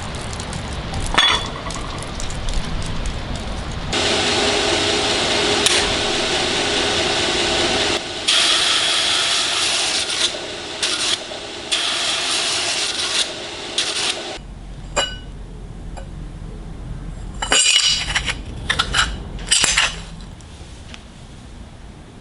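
Metalworking shop sounds: a machine runs steadily for about ten seconds, with loud, noisy stretches that switch on and off, then scattered sharp metal clinks and taps.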